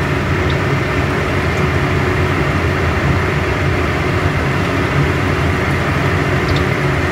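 Battered green chilies frying in hot oil, a steady sizzle over a steady low hum, with a few faint pops.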